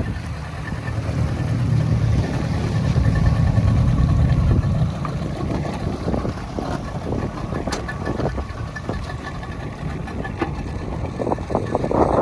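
Boat engine running steadily with a low rumble, under the rush of wind and water; the rumble is strongest in the first few seconds.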